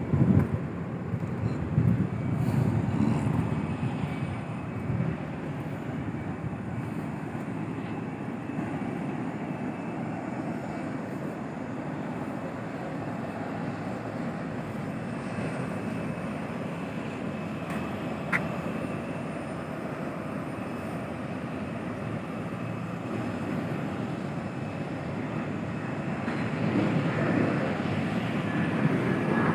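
Airplane engine noise: a steady rumble with a faint high whine, swelling in the first few seconds and again near the end.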